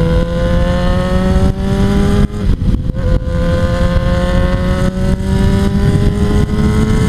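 Motorcycle engine under hard acceleration, its pitch climbing steadily. About two and a half seconds in it drops with a gear change, then climbs again through the next gear.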